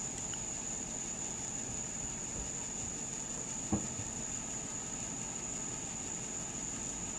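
Steady background noise with a constant high-pitched whine, and a single knock a little under four seconds in.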